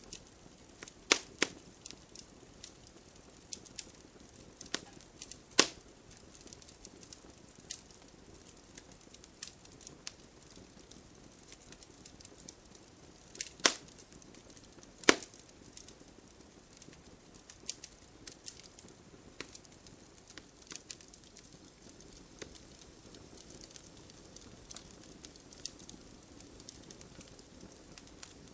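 Bonfire crackling, with irregular snaps of burning wood and a few loud pops, over a faint steady hiss of rain.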